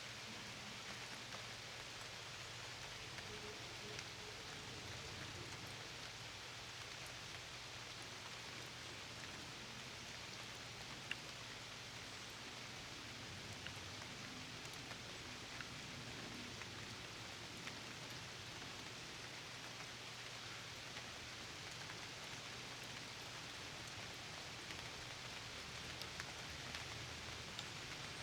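Steady rain falling, an even hiss with scattered individual drop ticks and one sharper tick about eleven seconds in.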